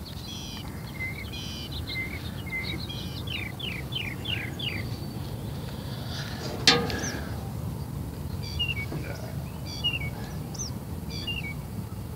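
Small birds singing, with quick chirps and runs of short falling whistled notes, over a steady low background rumble. One sharp click or snap about two-thirds of the way through is the loudest sound.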